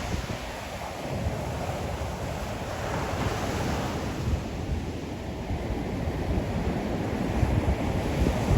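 Ocean waves washing onto the shore, with wind buffeting the microphone in a gusty low rumble; the surf grows a little louder near the end.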